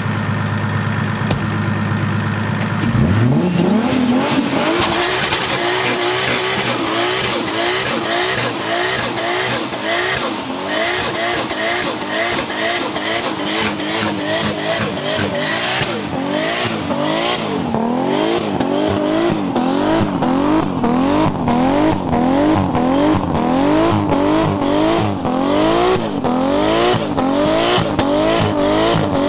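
Lexus IS300's swapped 1.5JZ turbocharged inline-six idling, then revved hard about three seconds in and held high through a burnout. The revs rise and fall about once a second over the hiss and squeal of the spinning rear tyres.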